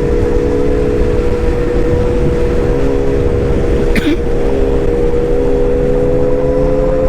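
A motor running with a steady whine that rises slightly in pitch toward the end, over a low rumble, with one sharp click about four seconds in.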